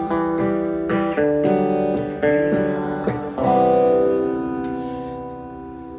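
Acoustic guitar strumming chords, then one last chord struck about three and a half seconds in and left to ring and fade.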